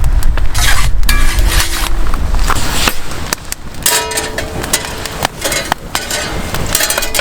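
Wind rumbling on the microphone for about the first three seconds, with a run of knocks, clicks and light clinks through the whole stretch, some of them ringing briefly.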